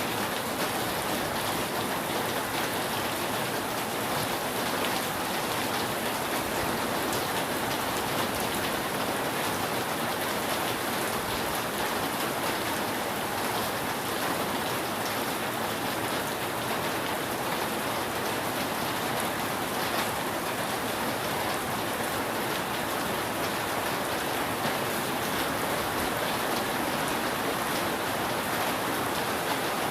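Steady, heavy rain falling on a roof, a dense even patter with fine scattered drop ticks.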